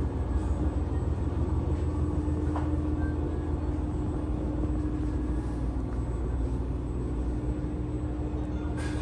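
A train running along, a steady low rumble with a steady hum over it and a single click near the end.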